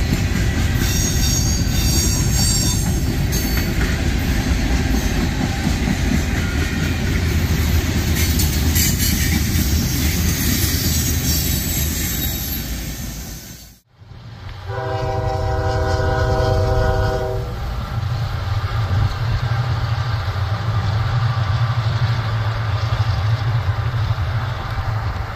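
Freight cars of a CSX manifest train rolling past: steady wheel-on-rail noise with faint, high wheel squeal. After a sudden break about halfway through, a CSX diesel locomotive sounds its horn once, for about two and a half seconds, over the low steady rumble of its engines.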